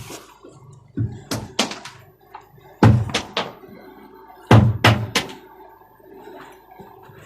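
Thuds and sharp knocks in three quick clusters of three or four strikes each, the last two clusters the loudest, over a faint steady hum.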